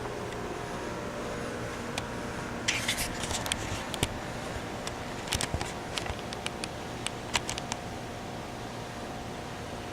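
Steady background hum, with an irregular run of sharp clicks and crackles in the middle that die away about three seconds before the end.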